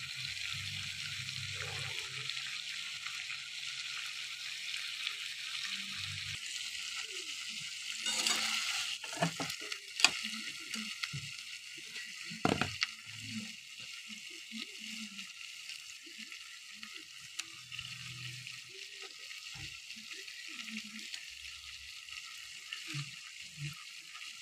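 Baby potatoes in a thick spiced gravy sizzling in a pan: a steady high hiss, with a few sharp knocks and scrapes near the middle.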